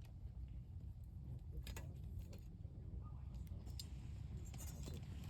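Wood campfire burning, with a few sharp crackles and pops over a steady low rumble.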